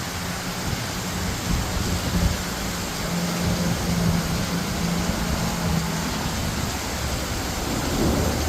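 Heavy rain pouring steadily. A steady low hum runs under it and stops about six and a half seconds in.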